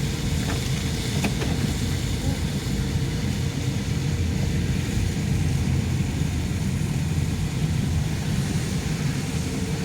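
Steady noise of a car being driven: low engine and tyre rumble with a faint steady hum, unchanging throughout.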